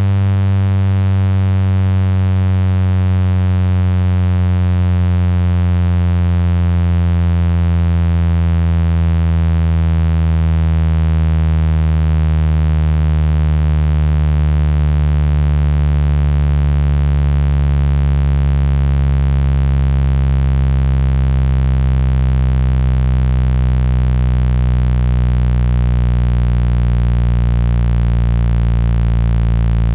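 Synthesized speaker-cleaning tone for pushing water out of a phone speaker: a loud, low, buzzy tone that slowly falls in pitch. A deeper hum swells in about halfway through.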